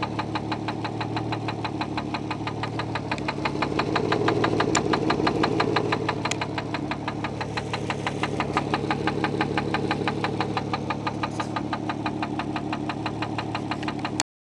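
Infiniti J30t's 3.0-litre V6 engine running with a rapid, even knock: rod knock from a worn connecting-rod bearing. The engine swells louder for a couple of seconds about four seconds in, then settles, and the sound cuts off suddenly near the end.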